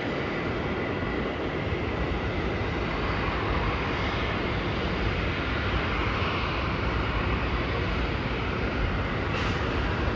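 Jet airliner engines heard from a distance: a steady, even rumble and rush that holds without breaks.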